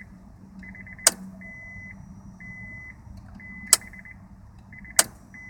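Shift solenoid of a 1998 Honda Accord's automatic transmission clicking sharply three times at uneven intervals, with the key on and the engine off. A high-pitched tone comes and goes in short dashes between the clicks. The owner suspects the solenoid is bad.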